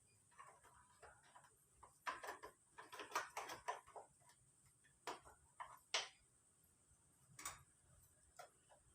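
Faint, irregular clicks and light metallic taps of tools and engine parts being handled during a scooter engine teardown, clustered in the middle of the stretch.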